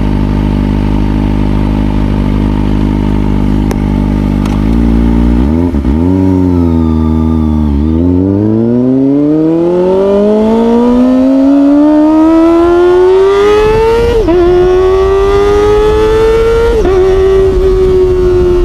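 Kawasaki ZX25R's 250 cc inline-four through an Orion aftermarket exhaust, running steadily at low revs. About five seconds in the revs waver and dip, then climb steadily as the bike accelerates. The climb is broken twice by a brief dip in pitch near the end, then the revs ease off slightly.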